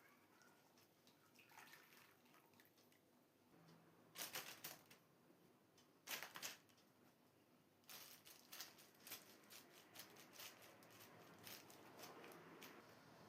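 Faint kitchen food-prep handling sounds: two short, louder rustling bursts a few seconds in, then a run of light clicks and taps.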